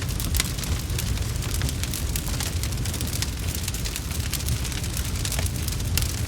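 Wood fire crackling in a fireplace: a dense, irregular run of sharp pops and snaps over a steady low rumble.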